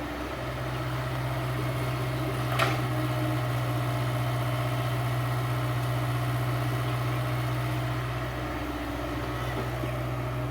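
A diesel engine running steadily at an even speed, with one sharp click about two and a half seconds in.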